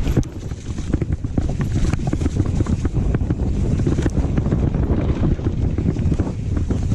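Wind buffeting the microphone of a camera on a downhill mountain bike at speed, with a steady stream of clicks and knocks from the bike rattling over rough trail.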